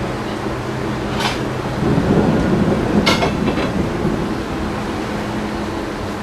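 A low rumble of thunder swells about two seconds in and fades out over the next two to three seconds, over a steady background hum and hiss. A few sharp ticks come during the rumble.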